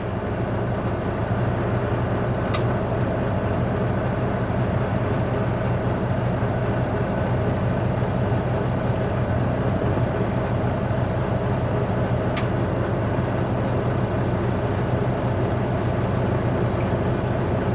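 Semi truck's diesel engine running steadily at an even, unchanging pitch, with two faint clicks.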